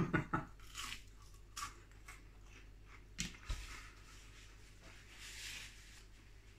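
A person chewing a crispy beer-battered onion ring: faint, scattered crunches and mouth clicks, then a soft rustle about five seconds in.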